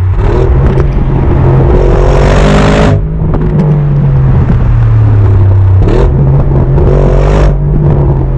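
Audi RS Q8's 4.0-litre twin-turbo V8 under hard acceleration. The engine note climbs and drops sharply at upshifts about three and six seconds in, then climbs again.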